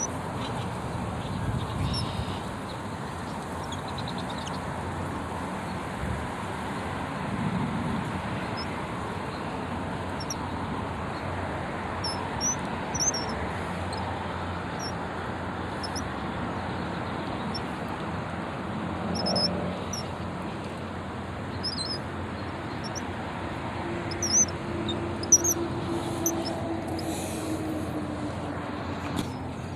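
Small birds chirping in short, high calls scattered throughout, over a steady outdoor background rumble. A low steady hum comes in for a few seconds near the end.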